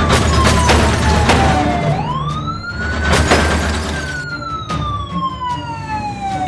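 Police siren wailing, its pitch falling, rising about two seconds in, holding briefly, then sliding slowly down again. Several sharp crashes or knocks sound over it, with a low steady rumble underneath.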